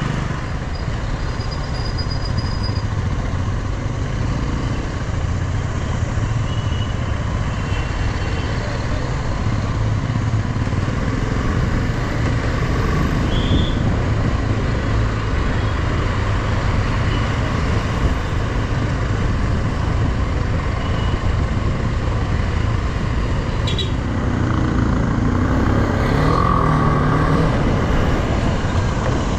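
Motorcycle on the move, its engine running steadily under continuous road and rushing noise. A few short pitched sounds come in over it near the end.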